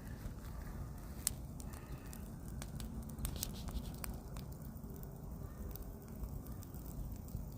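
Brush pile burning: irregular sharp crackles and pops over a low, steady rumble.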